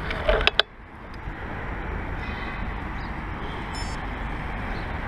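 Steady low rumble of a bicycle ride: tyre and wind noise, with a few sharp clicks and knocks in the first second and faint high beeps or squeaks twice.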